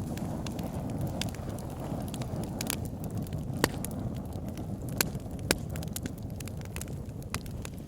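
Wood fire in a log burner, burning with a steady low rumble and irregular sharp crackles and pops of the logs, a few of them louder than the rest.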